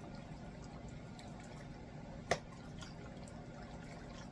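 Quiet kitchen sounds: a steady low hum with scattered faint ticks, and one sharp click about two seconds in, a utensil knocking against the pan.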